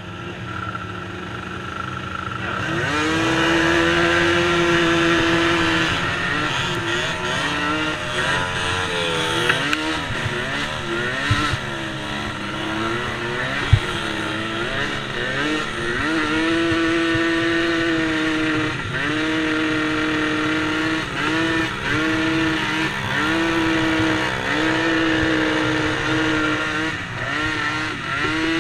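A pack of small race engines, among them a DRR DRX90 youth race quad, revving up and down together with overlapping rising and falling pitches. They get much louder about two and a half seconds in, and there are a couple of sharp knocks in the middle.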